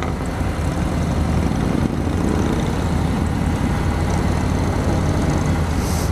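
Harley-Davidson Road Glide Ultra's Milwaukee-Eight V-twin running steadily on the move, under an even rush of road and wind noise.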